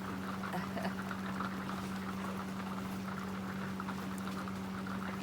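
Steady background hum with a dense, fizzing patter of small ticks over it, and no speech.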